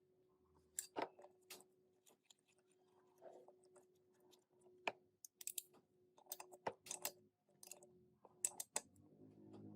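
Irregular light clicks and taps of small parts and hand tools being handled, a dozen or so sharp ticks spread unevenly, over a faint steady hum. Music comes in near the end.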